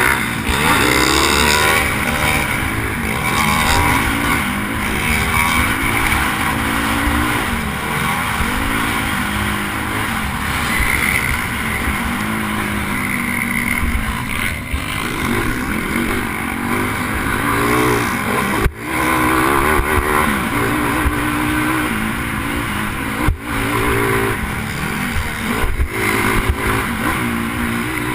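Pit bike's single-cylinder engine revving up and down repeatedly as it is ridden hard around a motocross track, heard from a helmet camera with wind noise over the microphone. The sound drops out sharply for a moment twice in the second half.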